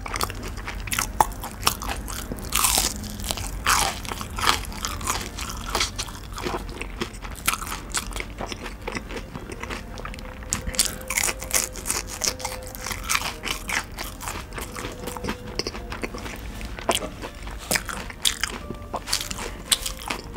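Close-miked crunchy biting and chewing of breaded fried food: a dense run of crisp crackles and crunches, with a louder snap at each bite.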